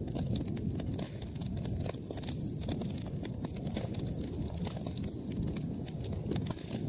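Wood fire crackling, with a steady stream of irregular pops and snaps over the low rumble of the burning logs.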